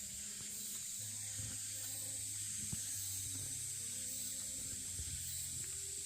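Faint, steady hiss with a low hum underneath.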